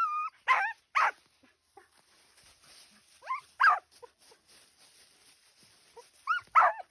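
Dog barking in short, high-pitched yelps that come in clusters: two right at the start, a pair about three and a half seconds in, and a quick run of three near the end.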